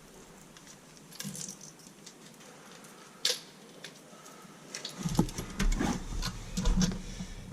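Small clicks and light rattles of things being handled, with one sharper click about three seconds in; from about five seconds in the knocks and rattling come thicker over a low rumble.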